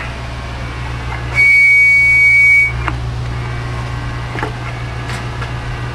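A steady, high, whistle-like tone with hiss behind it, heard once for a little over a second about a second and a half in, then cutting off sharply, over a constant low electrical hum from the CB radio test setup.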